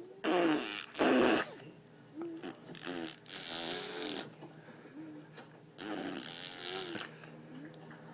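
A person making silly wordless noises with the voice and mouth. There are two loud, noisy blowing bursts near the start, then a string of short pitched vocal sounds that slide up and down.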